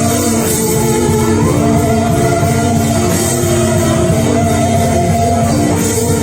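Live worship band playing an instrumental passage of sustained chords over drums and bass.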